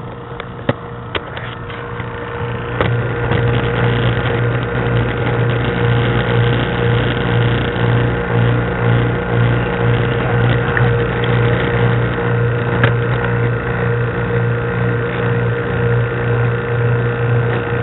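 Refrigeration vacuum pump running with a steady hum, pulling down a vacuum on a refrigerator's sealed system ahead of its refrigerant charge. There are a few sharp clicks in the first second or so, and the hum gets louder about three seconds in.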